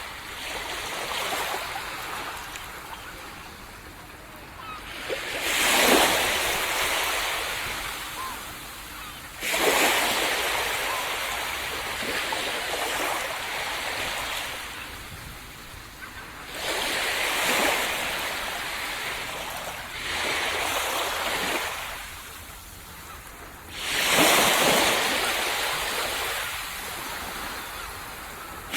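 Ocean waves breaking on a beach. Each wave comes in as a loud rush of surf, about five in all a few seconds apart, and fades into a softer wash between them.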